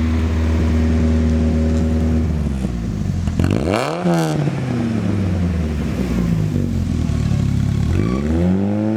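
A 32-year-old car engine running at a fast idle, then sagging as Seafoam is sprayed into its intake. About three and a half seconds in it is revved sharply and falls back, runs low and uneven for a few seconds, then is revved up again near the end. The spray makes the engine stumble toward stalling.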